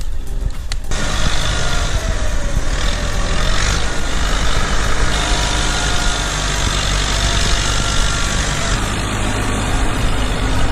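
Tractor engine running hard under load, loud and steady, with a sudden change in the sound about a second in.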